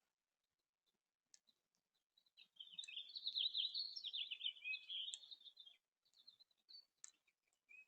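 A songbird singing a fast, jumbled warble of many quick notes for about three seconds, starting a couple of seconds in, with a few short chirps and faint ticks around it.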